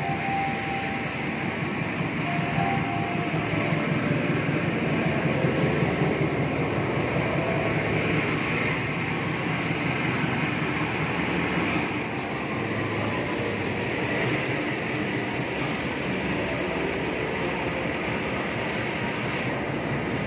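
Passenger train pulling into a station platform: the CC 206 diesel-electric locomotive runs past, followed by its stainless-steel coaches rolling by on the rails. It is loudest for several seconds early on, then eases as the coaches pass.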